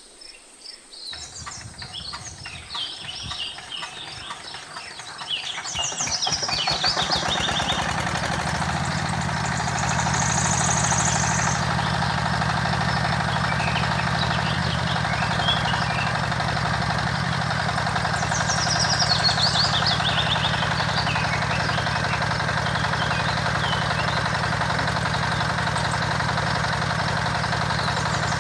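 Small gasoline engine of a mini water pump getting going over the first few seconds, then running steadily. Birds chirp over it a couple of times.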